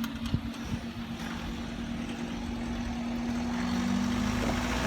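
Level crossing barriers rising after a train: the steady hum of the barrier mechanism's motor runs and stops shortly before the end, while road-vehicle noise slowly builds.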